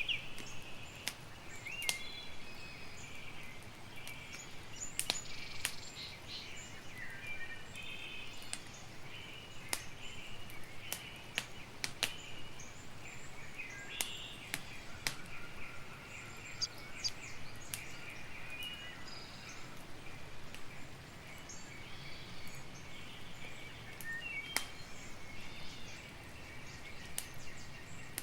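Campfire crackling with scattered sharp pops, over steady chirping of birds in the background.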